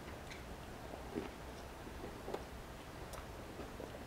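Faint chewing of a soft, sauce-covered burger, with a handful of soft mouth clicks spread out.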